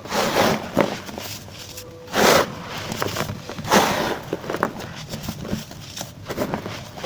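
Chunks of pressed baking soda being crushed and crumbled: three main crunches, the loudest about two seconds in, with smaller crackles between them.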